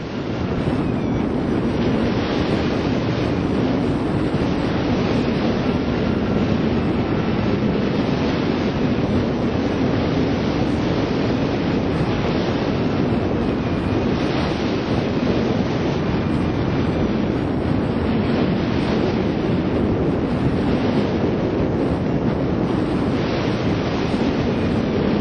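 Steady wind rushing over the microphone of a camera mounted on a hang glider moving through the air under truck tow.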